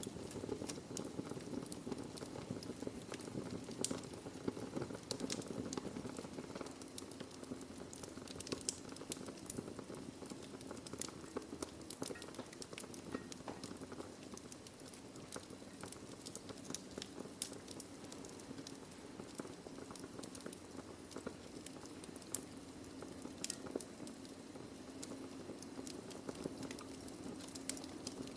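Wood fire burning in a fireplace: steady low rushing and hissing of the flames with irregular sharp crackles and pops of the burning logs.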